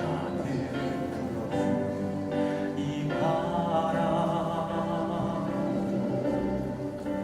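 Music: several voices singing together, holding long sustained notes.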